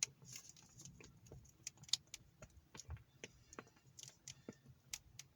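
Faint, irregular light clicks and taps, a few a second, over a faint low hum.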